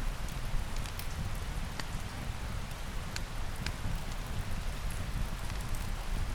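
Steady rain falling on a surface, a continuous hiss over a low rumble, with scattered sharp clicks.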